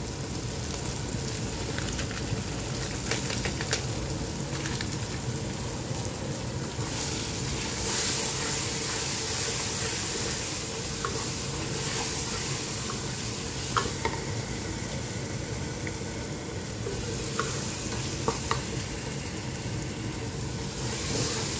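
Onion and tomato masala with spice powder frying in a non-stick pan with a steady sizzle, stirred with a wooden spatula. A few short clicks and scrapes of the spatula against the pan come now and then.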